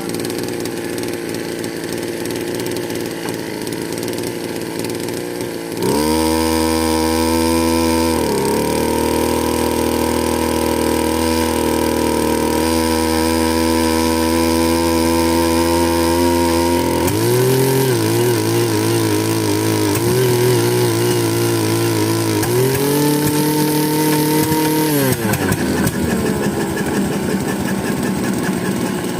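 Bernard Moteurs W14 engine running. About six seconds in it speeds up and gets louder, its pitch shifts several times, and near the end it drops back to a slower run.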